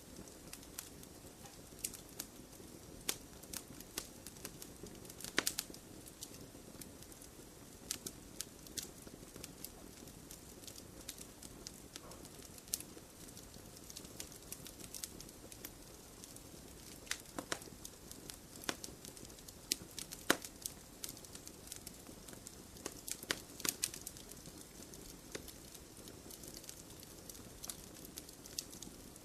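Campfire of wood burning in a stone fire pit, crackling and popping: irregular sharp pops over a steady low hiss of flame, with the loudest snaps about five and twenty seconds in.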